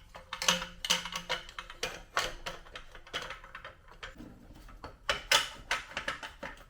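Metal clinking and clanking, an irregular series of quick knocks with brief ringing, as the Suzuki DR650's exhaust pipe is handled and fitted back onto the bike.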